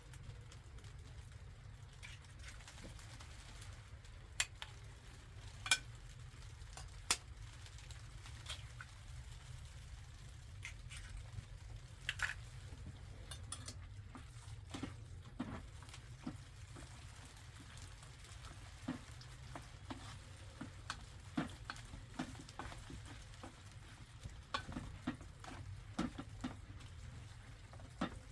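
Irregular light clicks and taps over a steady low rumble, sparse at first and more frequent from about halfway.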